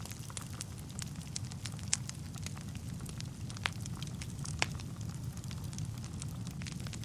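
Wood fire crackling in a fireplace: a steady low rumble of burning with frequent small pops and snaps. A few sharper pops come about two, three and a half, and four and a half seconds in.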